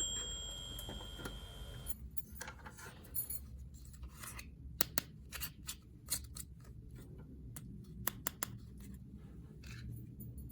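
A toy bell's ring fading out over the first two seconds, followed by scattered light clicks and taps of small plastic toy pieces being handled.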